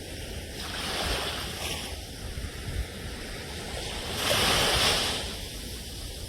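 Ocean waves surging and washing, rising and falling in swells, with the loudest wave about four seconds in.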